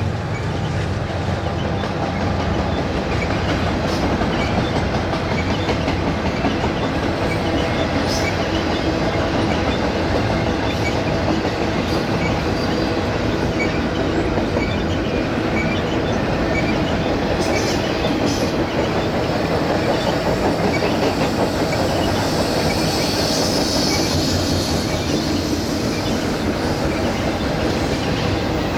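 Loaded double-stack container cars of a BNSF freight train rolling steadily past, the wheels clicking over the rail joints. A thin high wheel squeal comes in for a few seconds about three quarters of the way through.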